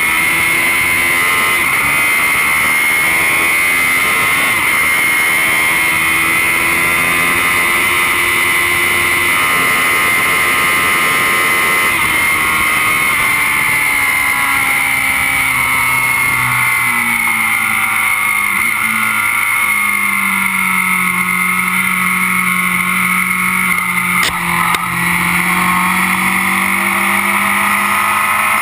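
Kawasaki Z750 inline-four engine running hard under a rider on track, heard close up beside the engine with steady wind rush. The revs drop around the middle and hold lower for a while, then begin to climb again near the end, with one short knock about three-quarters of the way through.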